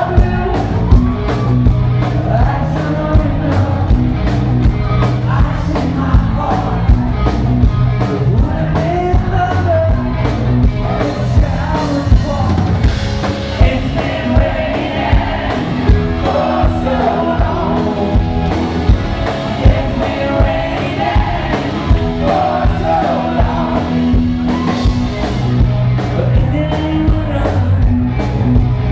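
Live rock band playing a song, with a singer over a steady drum beat.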